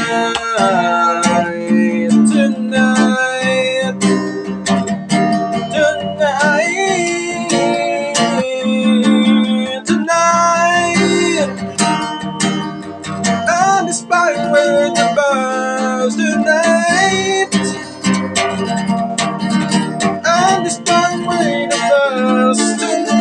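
Music: a song with a strummed acoustic guitar, and a melody line over it that slides up and down in pitch at several points.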